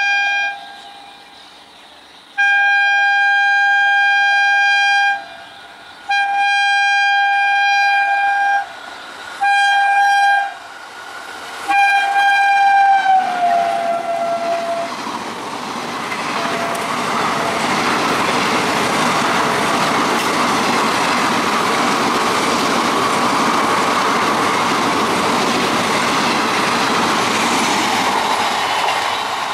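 Indian Railways train horn sounding as it approaches at speed: a short toot, then four long blasts, the last dropping in pitch as the train reaches the camera. Then the loud steady rush and wheel clatter of the coaches running through at high speed.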